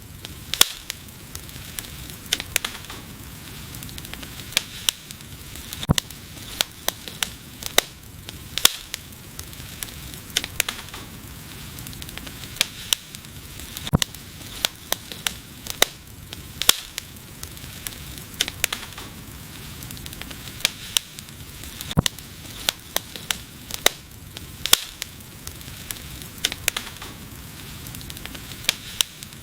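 Wood fire crackling: irregular sharp pops and snaps, a few each second and some much louder than the rest, over a steady sizzling hiss.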